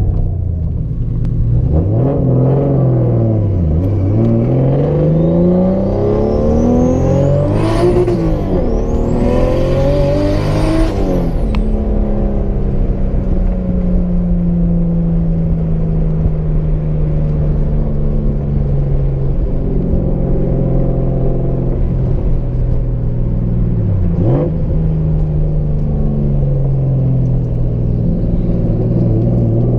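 Nissan S13's turbocharged RB-series inline-six heard from inside the cabin while driving: the revs climb and fall through several gears in the first dozen seconds, with a high whistle rising over the engine during the hardest pull. It then settles to a steadier cruise, with one quick drop and rise in revs about three-quarters of the way through.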